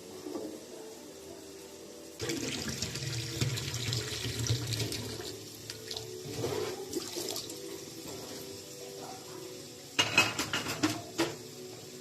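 Water running from a tap into a sink for a few seconds, then a burst of clattering dishes near the end.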